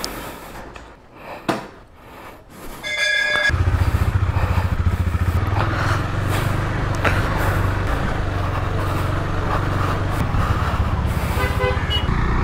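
KTM motorcycle engine running steadily while being ridden, starting suddenly about three and a half seconds in. Short vehicle horn beeps just before it starts and again near the end.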